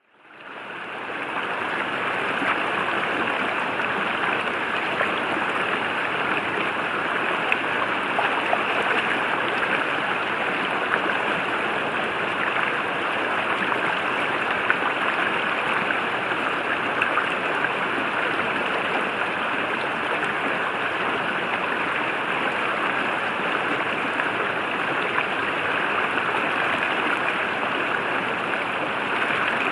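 A forest river running, a steady rushing of water that fades in over the first couple of seconds.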